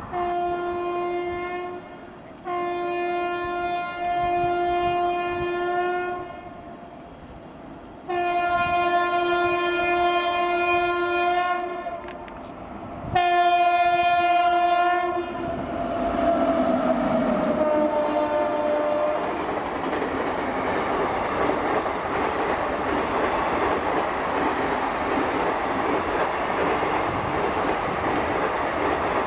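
A WDP4D diesel locomotive's horn sounds four long blasts, then the train passes close by in a steady rush of rolling noise and clickety-clack wheel clatter over the rail joints.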